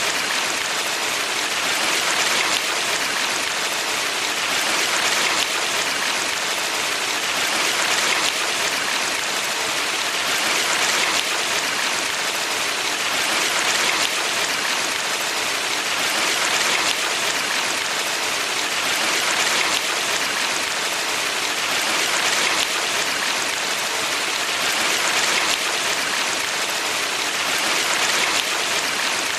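Valley stream water rushing steadily, swelling gently about every three seconds.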